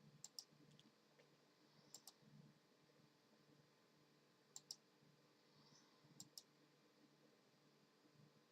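Faint pairs of sharp clicks, each pair a fraction of a second apart, four times, over a quiet steady hum.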